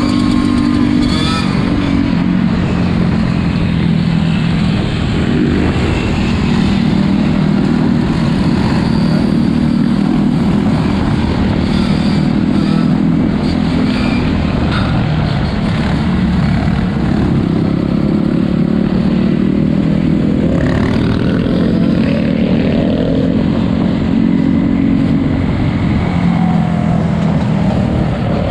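Several four-wheeler (ATV) engines running close by, their pitch rising and falling as they rev.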